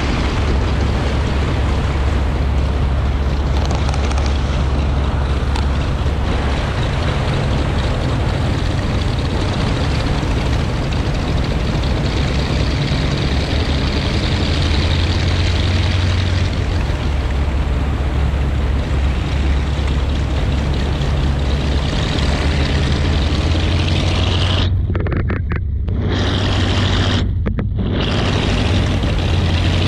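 The Martin Mars flying boat's four Wright R-3350 Duplex-Cyclone 18-cylinder radial engines running steadily as it taxis, a loud low drone whose pitch shifts slightly a few times. Twice near the end the sound briefly turns muffled, leaving only the low hum.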